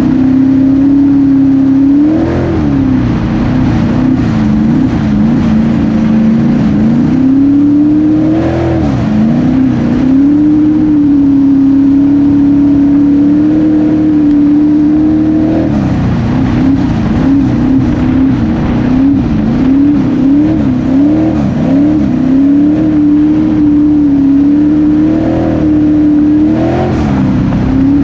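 V8 engine of a pure stock dirt track race car running at speed, its pitch repeatedly rising and falling as the throttle lifts and comes back on. It wavers quickly several times in a row about two-thirds of the way through.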